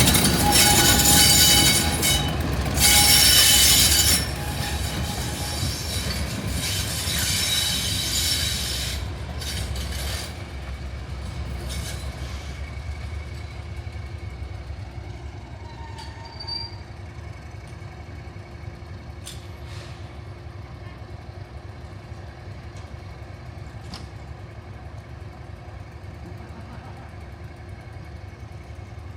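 Diesel-hauled heritage train running on the line, loud for the first few seconds with a high hissing, squealing rail noise, then fading over the next several seconds to a quieter steady rumble with a few faint clicks.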